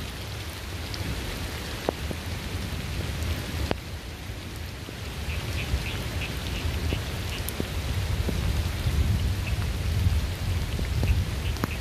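Steady rain falling, with sharp ticks of single drops hitting close by. A low rumble of distant thunder builds in the second half and grows louder.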